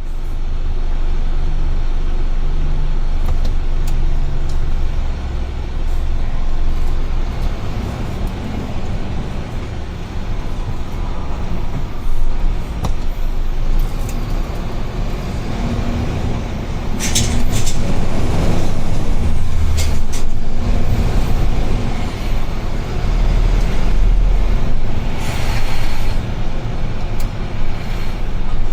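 UD Trucks Quon heavy truck's diesel engine and road noise heard from inside the cab while driving, a steady low rumble whose pitch shifts now and then. A few sharp clicks come about two-thirds of the way through, and a short hiss of air near the end.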